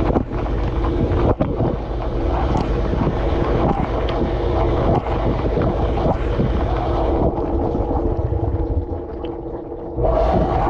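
Dishwasher cycle heard from inside the tub: water spraying and splashing against the dishes and the camera housing over a steady pump hum, with scattered small ticks. The spray eases for a couple of seconds, then comes back hard about ten seconds in.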